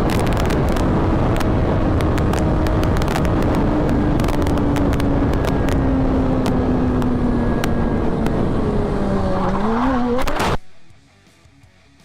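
Motorcycle at highway speed, with heavy wind roar and many sharp clicks over the engine. The engine note falls slowly as the bike slows, wavers and rises briefly near the end, then the sound cuts off abruptly.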